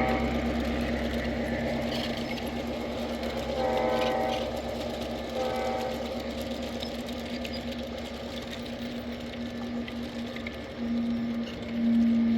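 G-scale model train running on outdoor track: a steady whirring motor-and-gear hum with a fast fine ripple, growing louder near the end. Two short pitched notes sound about 4 and 5.5 seconds in.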